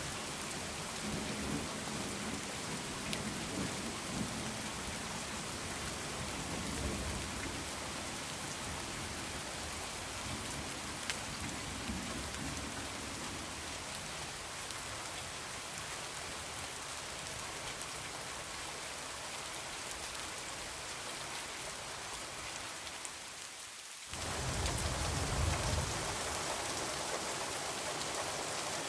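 Heavy rain falling steadily, with low thunder rumbling through it. About 24 seconds in, the rain dips, then jumps back suddenly with a strong low rumble of thunder.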